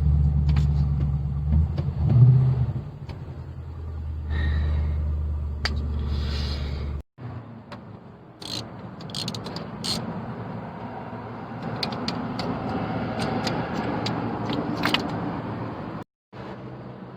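Ford Crown Victoria V8 idling with a misfire on cylinder 2 (codes P0302 and P0202). After about seven seconds the engine sound cuts off and is followed by scattered light clicks and scrapes.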